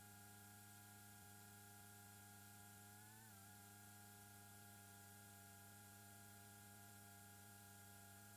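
Near silence: a faint, steady hum of several even tones, which wavers briefly in pitch about three seconds in.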